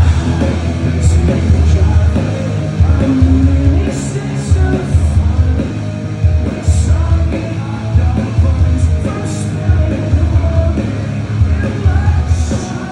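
Rock band playing live, loud, with distorted guitars, a heavy pulsing bass line, drums with crashing cymbals, and a sung or yelled vocal.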